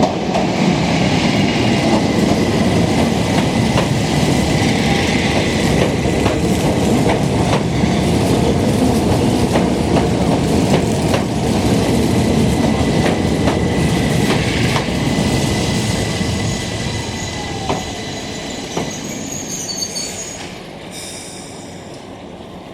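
Keihan Keishin Line electric train running on the rails, with a dense rumble, irregular clicks, and a thin steady high tone. The sound holds strong, then fades away over the last several seconds as the train moves off.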